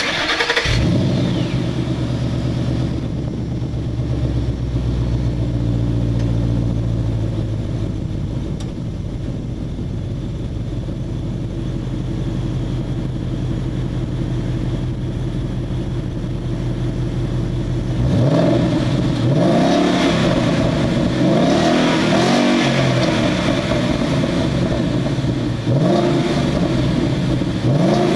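2011 Mustang GT's 5.0 V8 through a Cherry Bomb Pro axle-back exhaust: a loud surge in the first second settles into a steady, deep idle. About eighteen seconds in, the throttle is blipped repeatedly, the engine revving up and dropping back about seven times.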